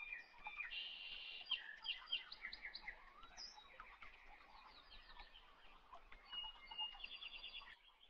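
Small birds chirping, a string of short high calls with quick trills about a second in and again near the end.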